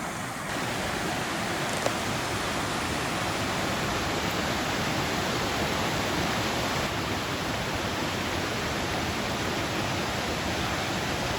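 Waterfall rushing steadily, an even hiss of falling water that grows slightly louder about half a second in.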